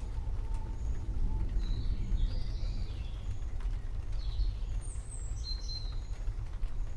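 Small birds chirping in two short runs of high calls, over a steady low rumble.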